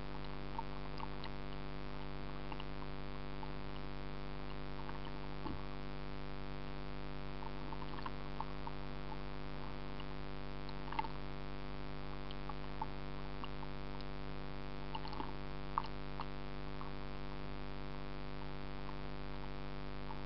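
A steady low hum made of many even overtones, with faint scattered ticks and clicks.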